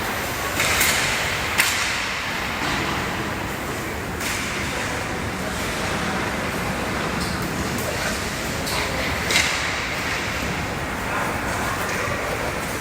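Hockey game ambience in an arena: a steady wash of rink and crowd noise with a few sharp knocks, the loudest about a second and a half in and near nine seconds.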